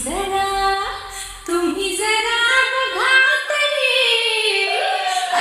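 A high female voice sings a melodic line with sliding, ornamented notes in a Marathi DJ remix. The low bass underneath drops out about halfway through, leaving the voice almost alone.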